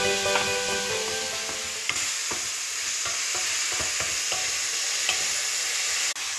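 Chicken pieces and vegetables frying with a steady sizzle in a stainless steel pot, stirred with a wooden spoon that knocks and scrapes against the pot.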